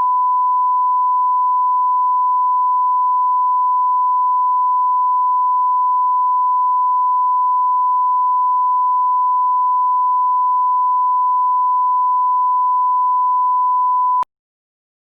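A loud, steady 1 kHz sine test tone, one unbroken pitch that cuts off suddenly about a second before the end.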